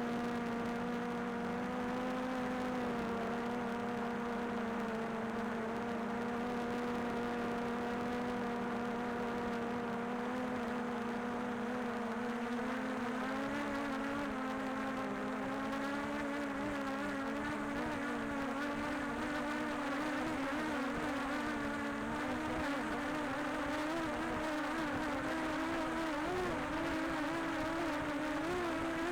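Quadcopter drone's propellers whining at a steady pitch that climbs a little about halfway through and wavers near the end.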